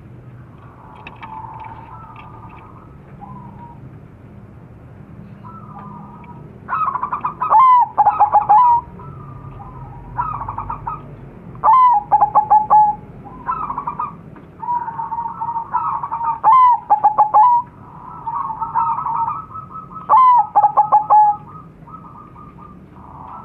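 Several crossbred zebra doves (perkutut) cooing and answering one another, their calls overlapping. Loud phrases of quick, stuttering coo notes come every few seconds over softer steady cooing.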